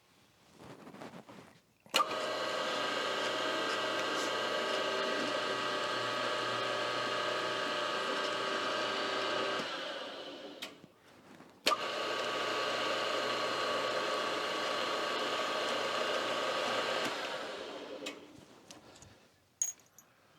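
An electric machine-tool motor runs twice, each time starting abruptly with a click and holding a steady whine before coasting down. The first run lasts about eight seconds; the second starts about two seconds after the first stops and lasts about five. A few sharp clicks follow near the end.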